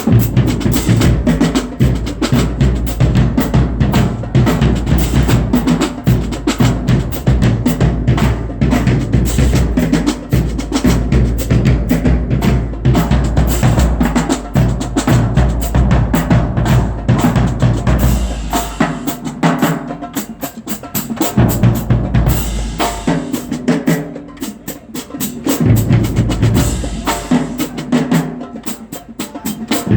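Marching band drumline playing a loud, fast drum cadence, with a couple of short lulls a little past the middle.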